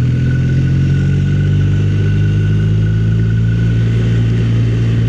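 Motorcycle engine running at a steady cruising speed while riding, with no change in pitch.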